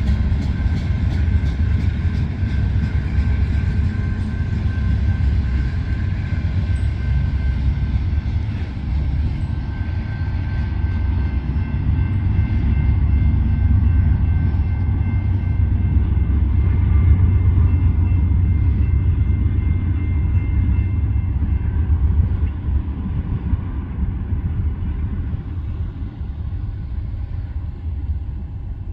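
A Union Pacific manifest freight train rolling past with a steady heavy low rumble, joined by faint thin high tones through the middle, easing off somewhat near the end.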